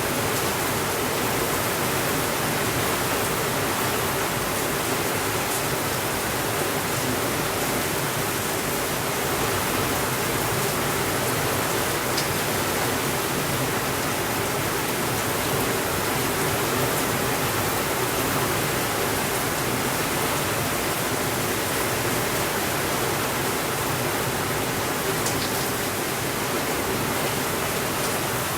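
Steady rainfall, an even unbroken hiss, with a few faint clicks scattered through it.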